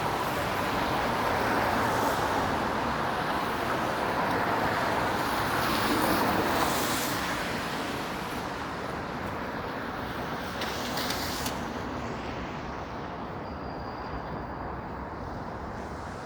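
Downtown street traffic: cars passing, the noise swelling over the first several seconds, then slowly fading.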